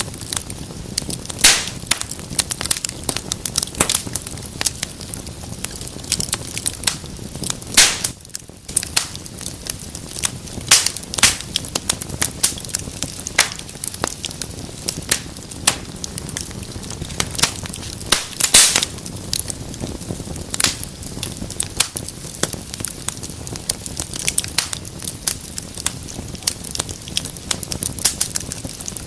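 Wood fire crackling in a fireplace: a steady low hiss with frequent sharp pops and snaps, a few of them louder than the rest.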